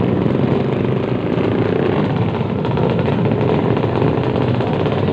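Motorcycle engines running loudly in a steady, dense mix.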